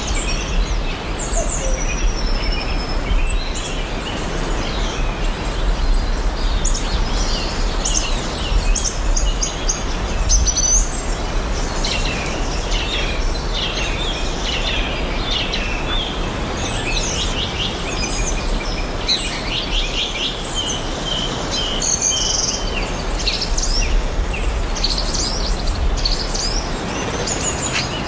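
Forest ambience of several songbirds chirping and trilling, many short overlapping calls, over a steady even background rush.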